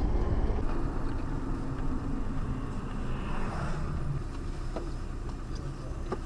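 A car on the road: a steady low rumble of engine and tyre noise, picked up by a dash cam, with a couple of faint clicks near the end.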